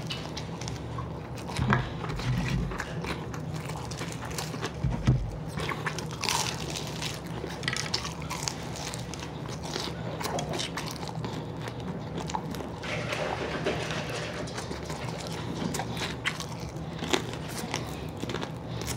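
Close-up eating sounds of breaded fried chicken wings being bitten, torn from the bone and chewed: irregular crackly crunches and wet mouth sounds, with two dull thumps about two and five seconds in.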